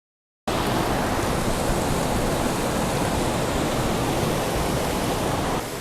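Waterfall close to the microphone: a loud, steady rush of falling water that cuts in suddenly from dead silence about half a second in and drops slightly in level near the end.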